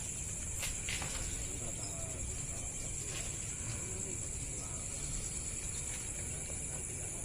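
Steady high-pitched insect chirring, with a few faint clicks.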